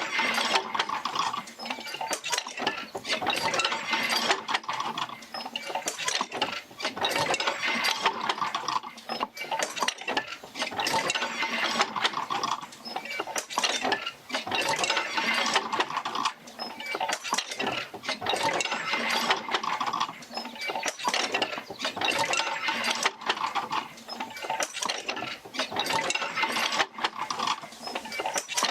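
Oil-field field wheel working the jerker lines as it rocks back and forth, driven by the Fitzgerald Rig: a busy clatter of mechanical clicks, knocks and squeaks that swells and eases in a slow cycle about every four seconds.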